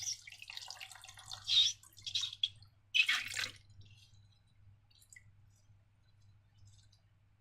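Wet slime squishing and dripping in a few short bursts over the first three and a half seconds, then mostly quiet with a faint steady hum.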